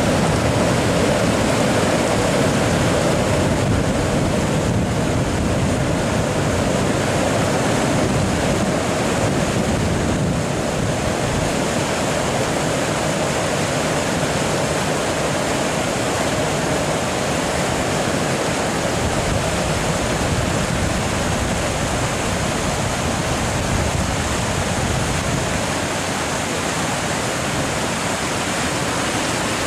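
Freight train of tank wagons running across a steel railway high bridge, heard from a distance as a steady rushing rumble that eases slightly over the first ten seconds.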